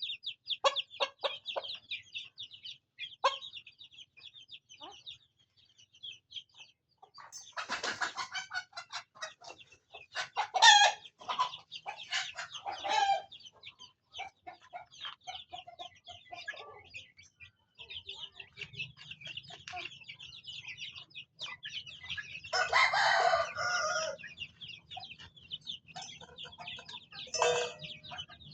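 Backyard chickens: chicks peeping almost without pause, with adult hens clucking and calling over them several times and a rooster crowing.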